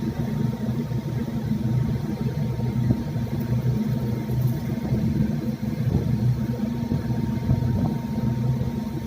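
Steady low drone of a ship's engines and machinery, with an even hum and a faint high steady tone above it.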